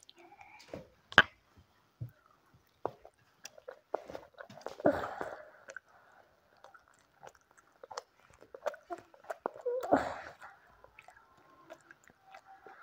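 A child chewing and eating noodles close to a clip-on microphone, with soft wet mouth sounds and scattered sharp clicks of a fork against a ceramic plate; the loudest click comes about a second in.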